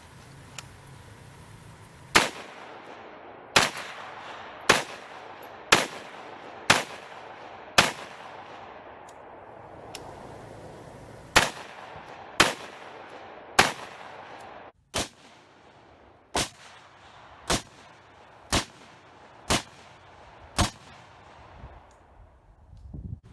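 Bushmaster AR-15 semi-automatic rifle fired about fifteen times at a steady pace of roughly one shot a second, in three strings with brief pauses between them, with the later shots a little quieter.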